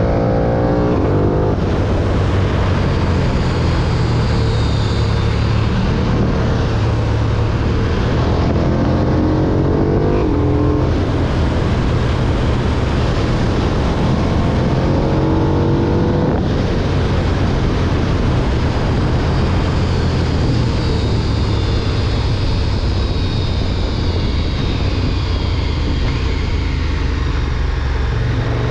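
KTM 1290 Super Duke R's V-twin engine under way, revs climbing and breaking off three times (near the start, around ten seconds in and around fifteen seconds in) as it pulls through the gears, then easing off slowly in the second half, over heavy wind rumble on the helmet or bike camera's microphone.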